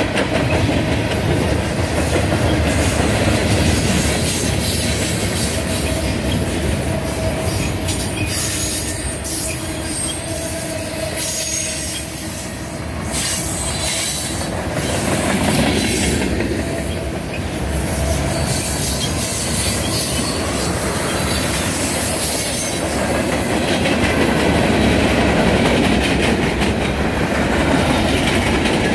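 Freight cars of a passing Norfolk Southern train rolling by: a steady rumble and clatter of steel wheels on the rails, with a faint high wheel squeal now and then.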